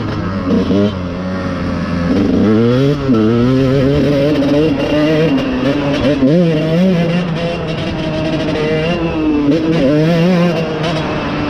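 Dirt bike engine being ridden hard, its pitch repeatedly climbing under throttle and dropping off.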